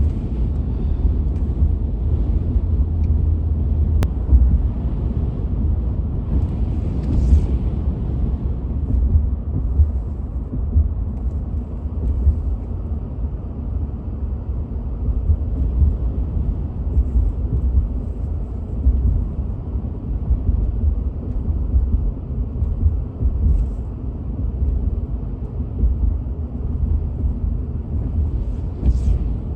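Steady low rumble of engine and tyre noise heard from inside the cab of a moving vehicle.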